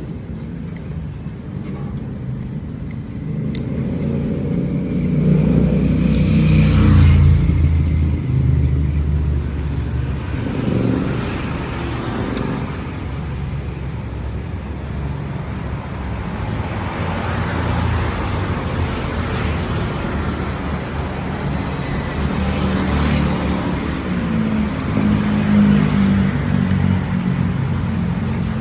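Road traffic: a steady low rumble of passing vehicles, swelling loudest about seven seconds in and again near the end.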